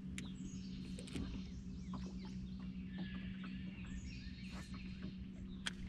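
Several songbirds chirping and calling from the wooded shore, over a steady low hum.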